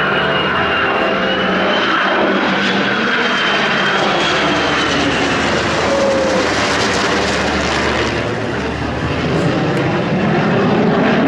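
Aircraft engine noise, loud and steady throughout, with a faint high whine that drifts slightly up and down in pitch.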